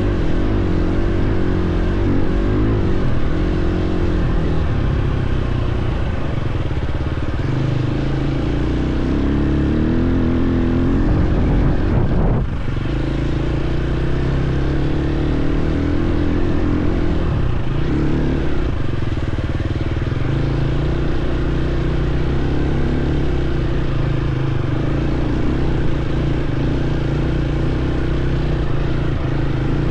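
Dirt bike engine running under changing throttle while riding a trail, its pitch rising and falling with the revs, with a brief drop in the revs about twelve seconds in.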